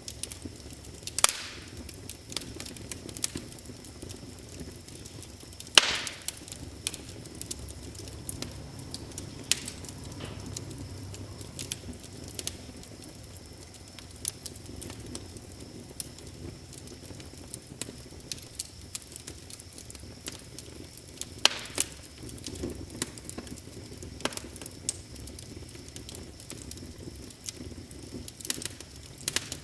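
Wood fire crackling: a steady low rush with irregular small crackles and a few louder, sharper pops, the loudest about six seconds in and another about twenty-one seconds in.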